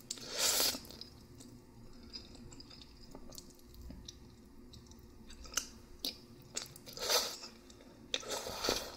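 Close-miked chewing of noodles: soft, wet, irregular mouth sounds, with three louder bursts, one just after the start and two near the end.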